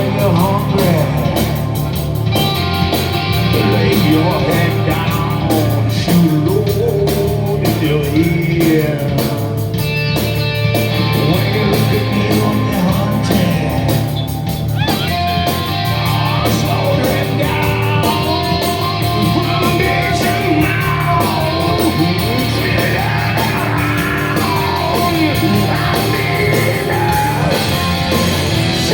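Live rock band playing loud, heavy music, with electric guitar and sung and shouted vocals.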